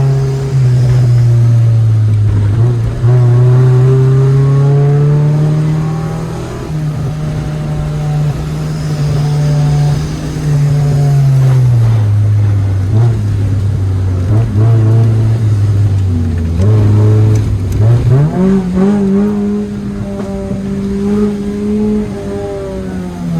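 Car engine being driven hard on a winding road, its note climbing under acceleration, holding, then dropping back as it eases off, several times over. About eighteen seconds in it climbs sharply and stays high.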